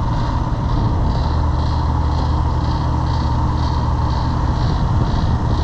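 Commercial refrigerator's condensing unit running: a steady low compressor hum with condenser fan noise, and a faint higher hiss that pulses about twice a second.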